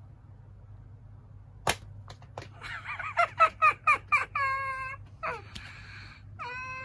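Angry domestic cat yowling: after a single sharp click, a quick run of short wavering cries turns into a long steady yowl, then a breathy hiss, and another long yowl begins near the end.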